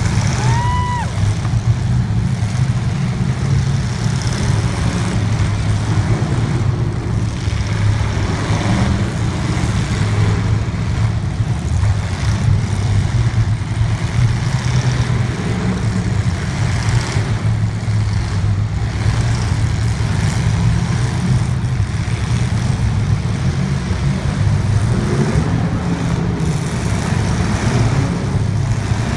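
Racing engine running continuously under load, its pitch wavering up and down as it accelerates and lifts.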